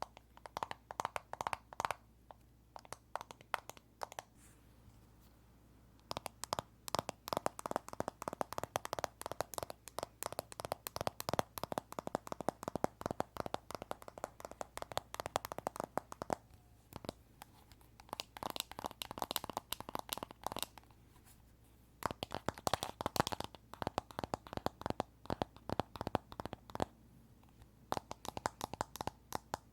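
Fingers tapping rapidly on an iPhone, quick flurries of sharp light clicks with brief pauses between them.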